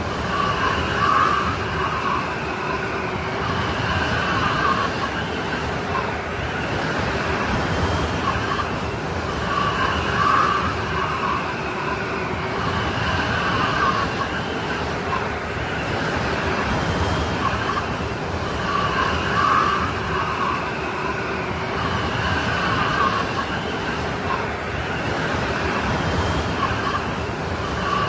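Strong snowstorm wind, a steady rushing with a howling, whistling tone that wavers and swells in gusts about every nine seconds.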